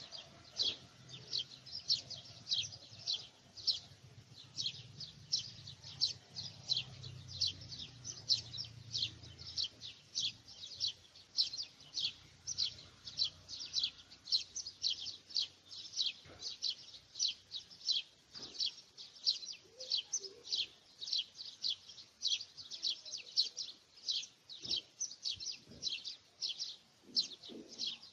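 A bird chirping over and over: short, high chirps, evenly spaced at about two or three a second.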